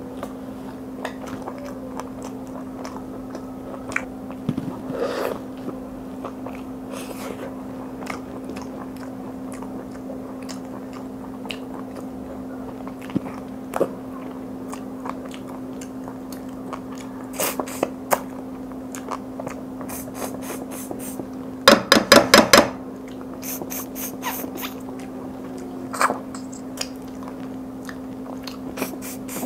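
Close-miked chewing, biting and wet lip-smacking as a person eats curried mutton and chicken by hand, with scattered mouth clicks and a quick run of loud wet mouth sounds about two-thirds of the way through. A steady low hum runs underneath.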